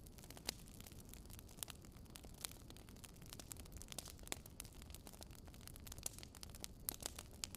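Faint wood fire crackling: irregular sharp pops and snaps, several a second, over a low steady rumble.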